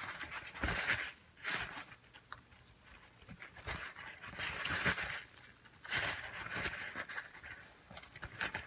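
Pomeranian puppy's breathing and mouth noises in irregular bouts of about a second each, with quieter gaps between them.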